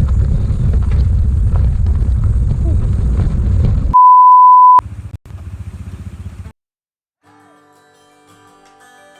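Loud low rumble of a moving vehicle. It cuts to a loud, steady high-pitched beep about four seconds in that lasts under a second. A short low buzz follows, then a brief gap. Soft background music with bell-like mallet notes begins near the end.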